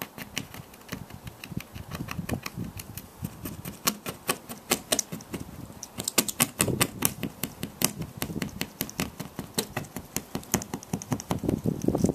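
Razor blade scraping cured repair resin flush on a car windscreen: rapid, irregular short strokes of metal on glass, several a second, some louder than others. This is the last step of a stone-chip repair, levelling the filled pit.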